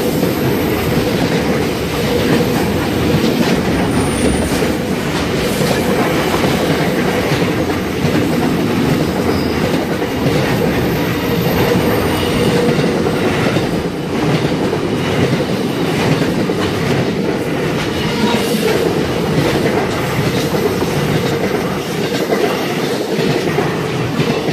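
Freight train rolling past steadily, its wagons' wheels clattering over the rail joints.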